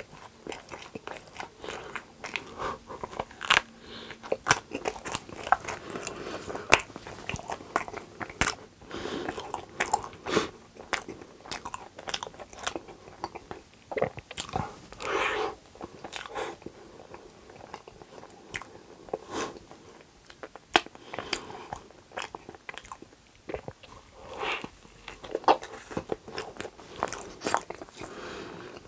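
Close-miked biting and chewing of a Nutella cheese waffle topped with whipped cream: many short, sharp, irregular mouth clicks and crunches.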